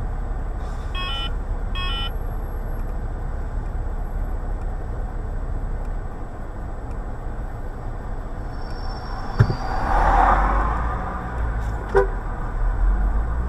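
Steady road and engine noise of a car on the move, with two short horn toots about one and two seconds in, and a couple of sharp knocks later on.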